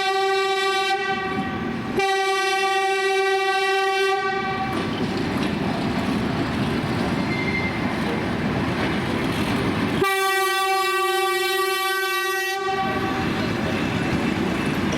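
Train horn sounding long single-pitched blasts: one ending about a second in, another from about two to four and a half seconds, and a third starting about ten seconds in and lasting some two and a half seconds. Between the blasts, a train's running rumble and wheel clatter.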